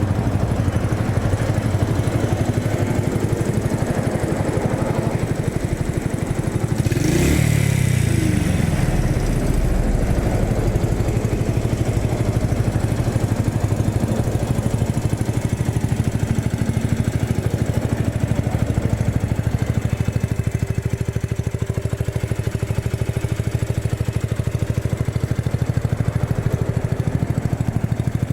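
Honda Super Cub 50's air-cooled single-cylinder four-stroke engine idling steadily through an aftermarket muffler, with one short rev that rises and falls about seven seconds in.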